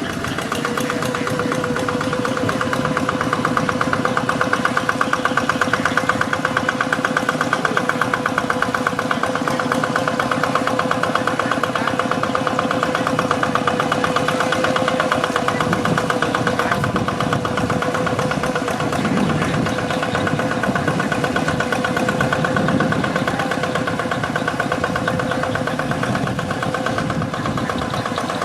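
Single-cylinder diesel engine of a walking hand tractor running steadily at an even speed, with a rapid, even chugging beat.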